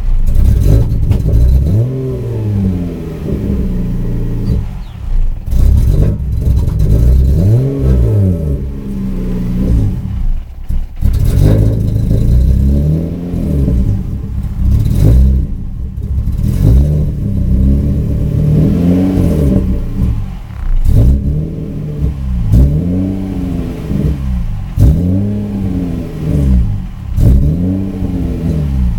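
Subaru EG33 3.3-litre flat-six engine blipped over and over, its pitch rising and falling with each rev, faster and more regular in the second half. The engine hesitates under throttle: the revs drop while the pedal is pressed and climb only once it is released, an intermittent loss of power with no check-engine light that a new fuel pump did not cure.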